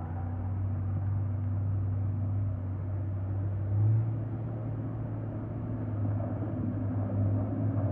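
Four-wheel-drive vehicle's engine running hard under load on a steep climb, a steady low drone that swells briefly about four seconds in and again near the end.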